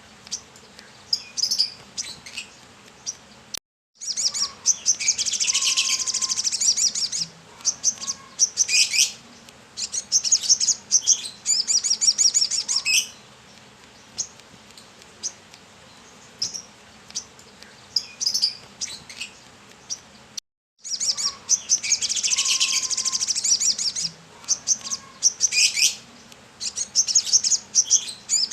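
Sunbird (kolibri kelapa) singing vigorously: high, fast twittering trills and chirps in bursts, some runs lasting several seconds, with short pauses between them.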